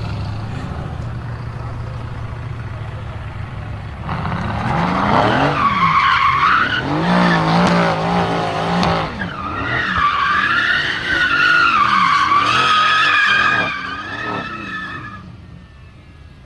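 Mercedes-AMG GT S twin-turbo V8 with an ASG exhaust running low, then tyres squealing in a loud, wavering high-pitched screech during a burnout, in two long stretches with a short break between them, the engine revving underneath. The squeal dies away near the end.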